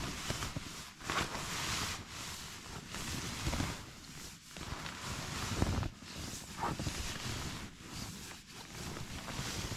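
Nylon fabric and down-filled gear rustling and swishing in irregular bursts, handled and shifted around inside a tent.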